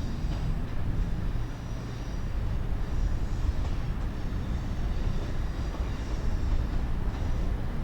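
Passenger train moving through the station: a steady low rumble with a faint high whine over it, growing a little louder near the end.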